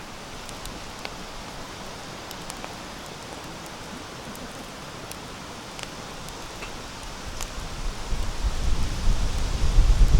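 Sawtooth-oak firewood burning in a campfire: a steady hiss with scattered sharp crackles and pops. About eight seconds in, a low rumble builds and grows louder.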